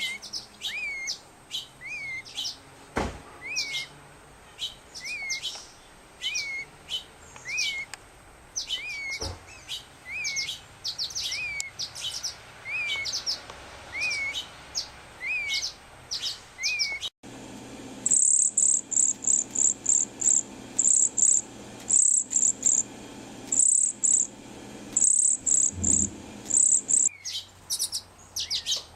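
Fledgling songbirds begging for food: first a short whistled call repeated about once a second, then a cut to very high, rapid trills in quick bursts, the hunger begging of a young Cedar Waxwing.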